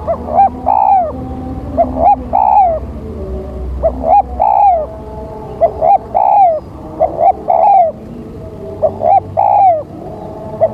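Spotted dove (tekukur) cooing as a decoy lure call. It repeats the same phrase about six times, each time two short notes and then a longer drawn-out coo.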